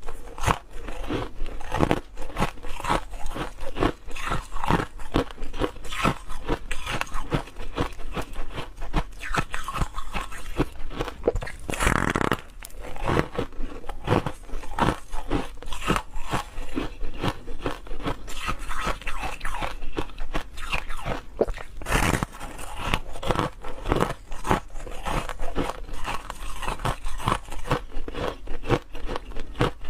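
Ice being bitten and chewed close to the microphone: dense, rapid crunching that runs on, with a louder crunch about twelve seconds in and another about twenty-two seconds in.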